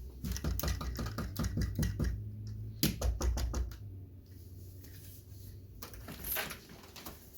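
A quick, irregular run of clicks and taps for about four seconds, thinning out after that, with a short scraping sound about six seconds in.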